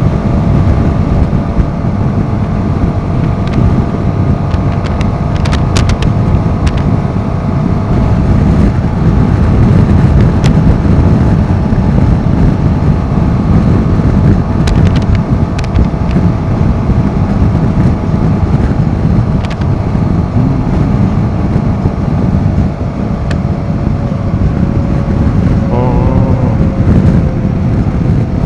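Royal Enfield Himalayan 450's single-cylinder engine running at a steady pace while riding, with wind buffeting the microphone. The engine note eases down slightly near the end, and a few sharp clicks come through.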